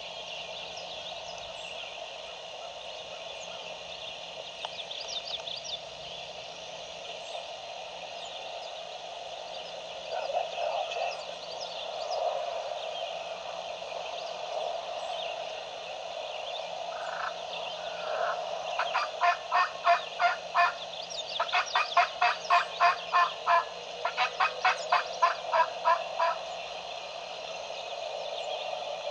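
Wild turkey yelping: three runs of loud, evenly spaced yelps, about four or five a second, in the last third. Under them is a steady chorus of frogs calling.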